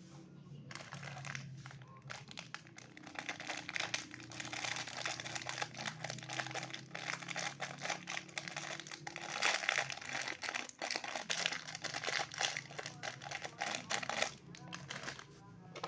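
Toy packaging crinkling and rustling as it is handled and opened, a dense crackle that starts about a second in and dies down shortly before the end.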